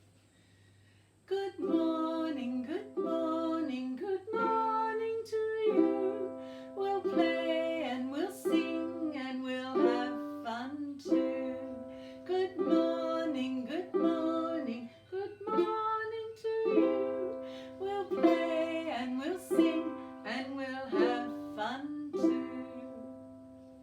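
Ukulele strummed in chords with a voice singing a simple melody over it, starting about a second in.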